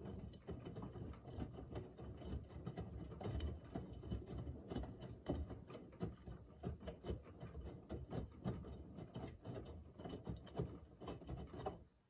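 Miele W3985 front-loading washing machine's drum turning during the wash, the laundry tumbling with many irregular knocks and clicks over a low rumble. It starts suddenly and stops suddenly near the end, one tumbling stroke of the wash rhythm.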